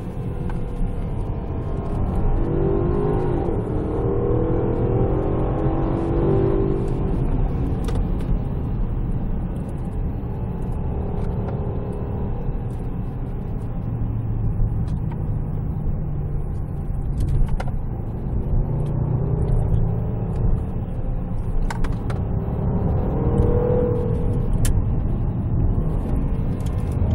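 Cabin sound of a 2014 Range Rover Sport's supercharged 5.0-litre V8 on the move: a steady low engine and road rumble, with the engine note rising under acceleration about three seconds in and again near the end, and a few faint clicks.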